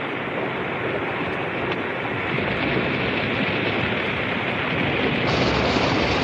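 Steady rushing noise of waves and surf, without a distinct beat, turning brighter and hissier about five seconds in.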